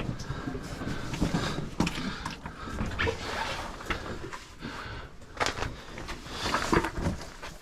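Cavers crawling through a tight rock passage: irregular scraping, shuffling and rustling of bodies and gear against rock, with scattered short knocks.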